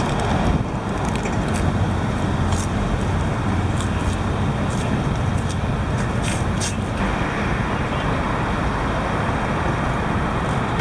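Steady road traffic noise, vehicles passing on the road, with a few brief faint ticks.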